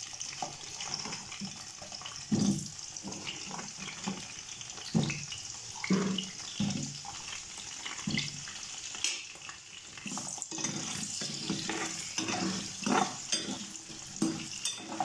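Potato pieces frying in hot oil: a steady sizzle, broken every couple of seconds by short soft knocks as more pieces go into the pan.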